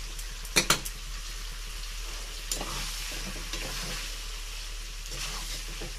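Chicken curry being sautéed (bhuna) in oil in a metal kadai: a steady sizzle as the pieces are stirred with a spatula. There are two sharp knocks of the spatula against the pan about half a second in, and a lighter one about two and a half seconds in.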